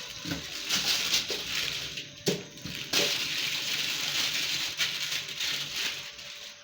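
Running water splashing in uneven stretches, with a few knocks and clatters in between, as when meat is washed.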